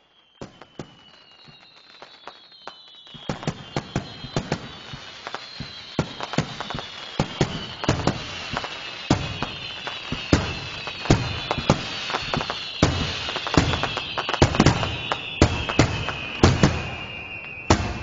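Fireworks display: a dense run of sharp bangs and crackles that thickens about three seconds in. Underneath is a high tone that falls slowly in pitch.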